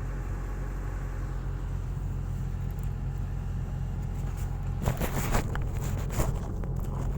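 Hitachi excavator's diesel engine running steadily, with a few brief harsher sounds over it in the last two seconds.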